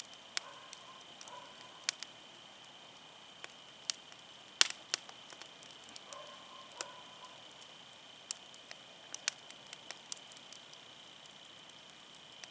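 Firewood burning in an open fire, crackling with irregular sharp pops, the loudest about four and a half seconds in.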